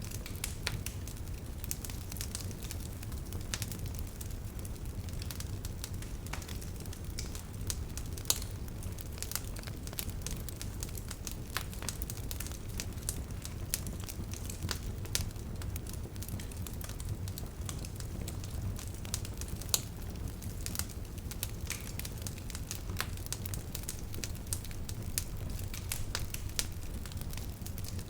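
Wood bonfire burning with a steady low rush of flame and frequent irregular sharp crackles and pops, two pops standing out louder, one about a third of the way in and one past the middle.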